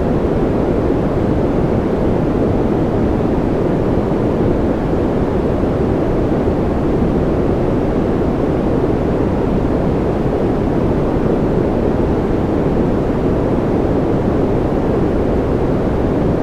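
Steady, unchanging noise for sleep masking, deep and rushing rather than hissy, with no separate drops, clicks or changes.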